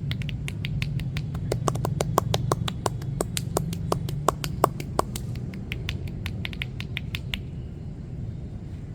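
Hands striking a body in quick percussive massage strokes (tapotement): a fast run of crisp slaps, about five a second, that stops about seven seconds in. A low steady hum runs underneath.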